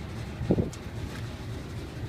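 Nissan Diesel Big Thumb truck's V8 diesel engine idling with a steady low rumble, with one short thump about half a second in.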